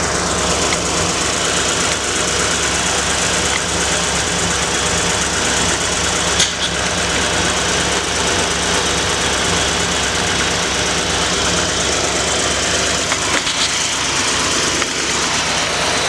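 Ford 289 small-block V8 with a carburetor idling, still warming up after a cold start. The idle is prone to hesitation, which the owner suspects comes from flooding, bad gas, timing or the air-fuel mixture.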